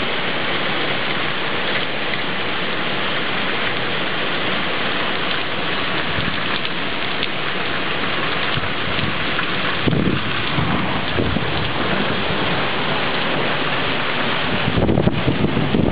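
Heavy thunderstorm rain pouring onto a tiled balcony and railing, a steady hiss of spattering water. Low thunder rumbles build about ten seconds in, and a louder rumble comes near the end.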